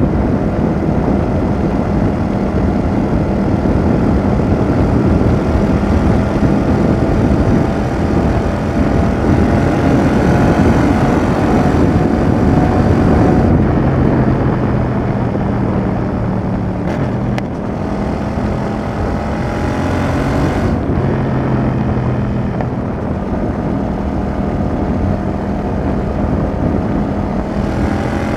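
Yamaha XSR700's 689 cc CP2 parallel-twin running through a Roadsitalia double aftermarket exhaust, heard from the rider's seat. The engine pulls up through the revs several times, with sudden drops in pitch between the pulls, over steady wind noise.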